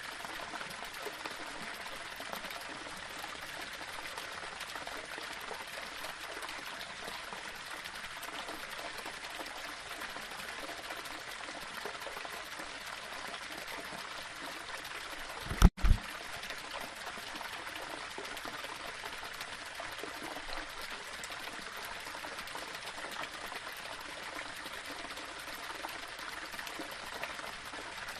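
Small waterfall running steadily over rocks, an even rush of falling and splashing water. About halfway through, a brief double thump with a momentary drop-out of all sound breaks the flow.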